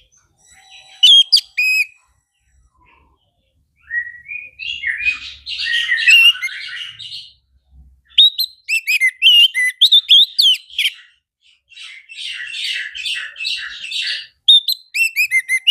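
Orange-headed thrush singing a long, varied song: loud clear whistled phrases with quick rising and falling notes, alternating with dense, scratchy twittering passages, broken by short pauses.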